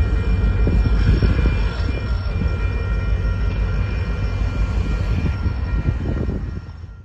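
Empty BNSF coal train and its rear locomotives rolling away on the rails: a steady low rumble of wheels on track with a few thin, steady high ringing tones over it. The sound fades out quickly near the end.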